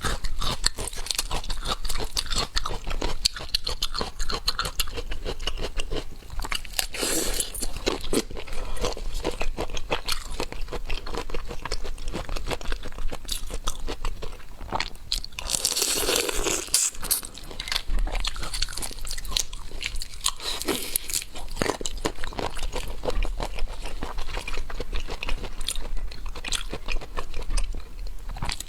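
Close-miked eating of seafood: continuous wet chewing and crunching with many small clicks, and louder noisy bursts about seven seconds in and again around sixteen seconds.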